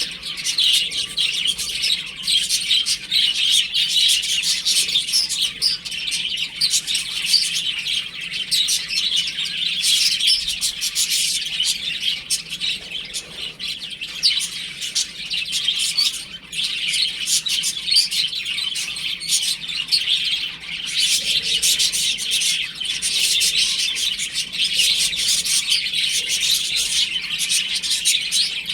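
A group of baby chicks peeping continuously, many short high chirps overlapping.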